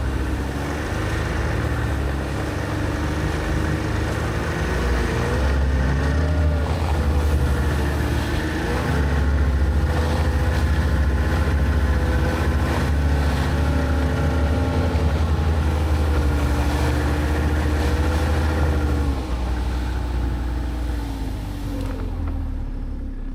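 Motor vehicle engine running under load, with a heavy low rumble and a pitch that wavers up and down; it eases off somewhat near the end.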